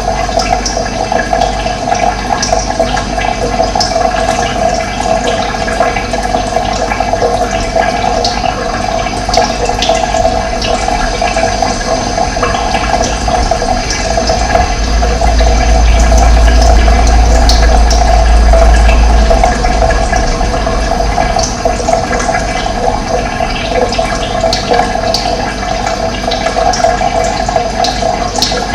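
Running water flowing steadily, a dense rushing noise, with a deeper rumble swelling for a few seconds around the middle.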